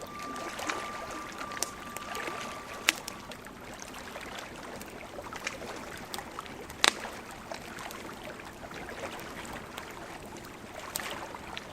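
Bonfire crackling, with a steady hiss dotted by many small snaps and a few sharp pops, the loudest about seven seconds in. A thin steady high tone fades out about three seconds in.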